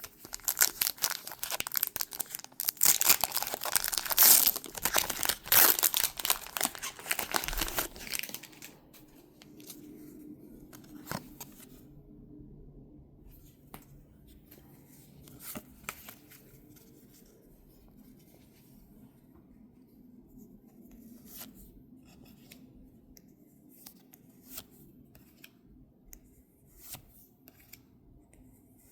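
Foil Pokémon booster pack wrapper being torn open and crinkled for about eight seconds, then quiet scattered clicks and rustles of the cards being handled.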